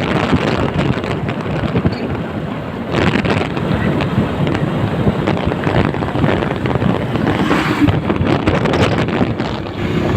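Strong wind buffeting the microphone over the low rumble of a moving vehicle.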